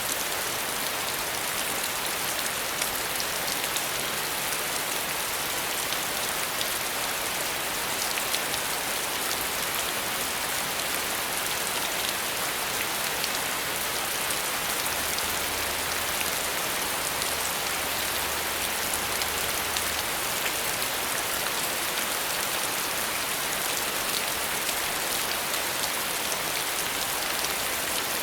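Steady rain falling, an even hiss of many drops with small sharp ticks of individual drops hitting a surface.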